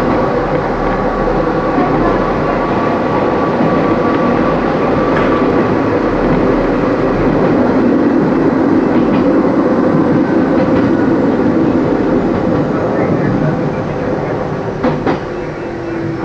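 Kobe Electric Railway 3000 series electric train running, heard from the driver's cab: steady wheel and running noise on the rails. Near the end the noise eases as the train slows into a station, with a couple of sharp clicks and a low, slightly falling whine.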